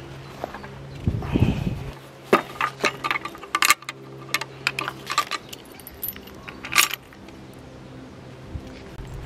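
A run of sharp clicks and clinks over several seconds, just after a brief gust of wind on the microphone about a second in.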